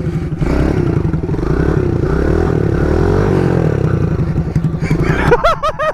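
Small mini bike engine running close by, its pitch rising and falling as the throttle is worked.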